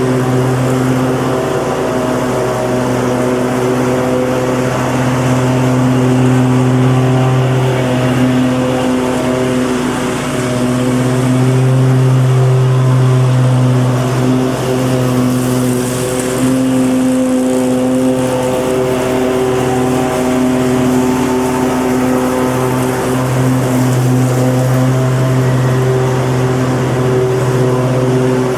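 Lawn mower engine running steadily at a constant speed, with a low, even hum that swells and eases slightly in loudness.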